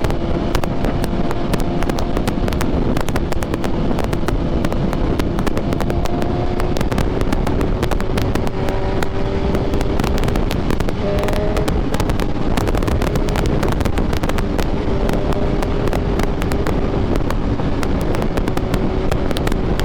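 BMW S1000RR inline-four sport bike running at a steady cruise, its engine note rising slowly, under heavy wind rush with sharp buffeting crackles on the microphone.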